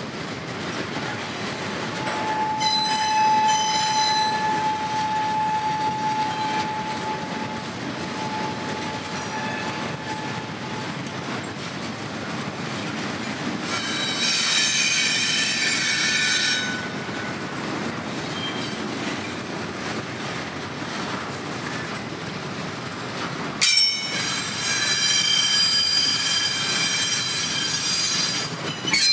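Double-stack intermodal container train rolling past on its well cars, with spells of high-pitched wheel squeal about three seconds in, midway, and over the last five seconds. A sharp bang comes just before the last squeal.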